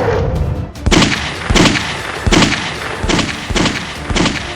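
A series of about six sharp bangs, roughly one every two-thirds of a second, starting about a second in, each with a short ringing tail.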